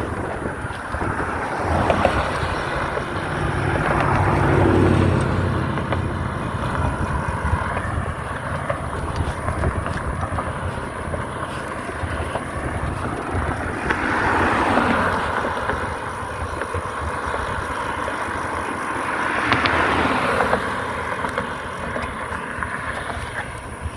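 Wind rushing over the microphone on a bicycle ride, with vehicles swelling and fading as they pass, about three times: near 4 seconds, 15 seconds and 20 seconds in.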